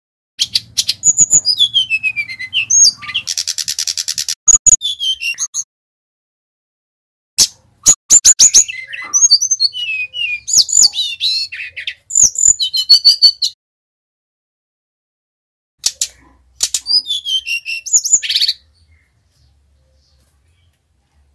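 Sikatan rimba dada coklat (jungle flycatcher) singing in three loud bouts separated by silent gaps. Each bout is a fast run of high chirps and falling whistled notes, with a buzzy trill a few seconds in.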